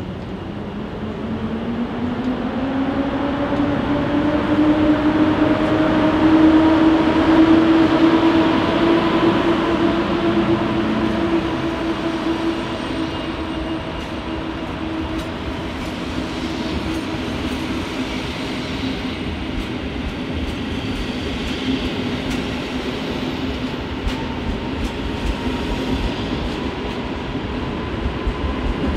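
A train's traction motors whining. The pitch rises over the first several seconds as the train gathers speed, then holds and sinks a little, with scattered clicks from the wheels over the rail joints in the second half.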